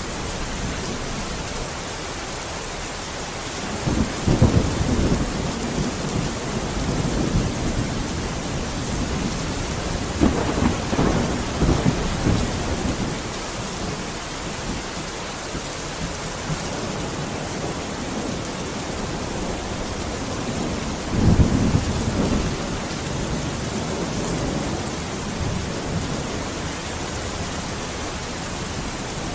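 Steady heavy rain hissing, with rolls of thunder rumbling in three times: about four seconds in, around ten seconds, and again past twenty seconds.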